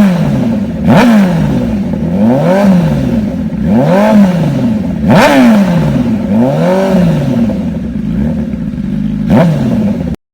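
Honda CBR1000RR inline-four engine revved through an SC-Project S1 exhaust in quick throttle blips, each rising sharply and falling back to idle, about seven times. The sound cuts off suddenly near the end.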